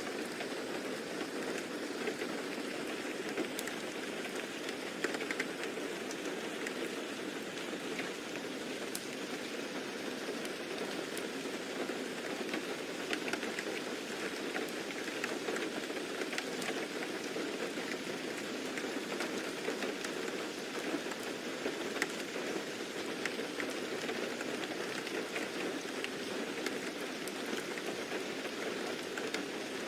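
Steady rain falling on a surface, an even patter with scattered drop ticks.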